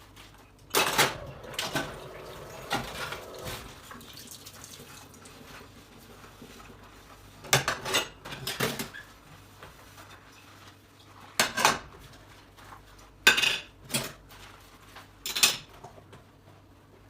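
Dishes and cutlery being handled, clinking and clattering against each other in irregular bursts, with a quieter pause mid-way.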